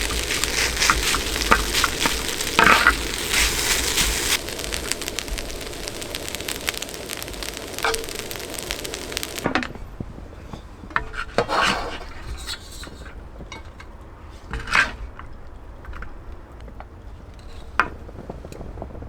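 Food sizzling in a hot pan, with scraping and clicking from stirring, for about the first half; then an abrupt cut to a quieter stretch with a few scattered light knocks and clinks.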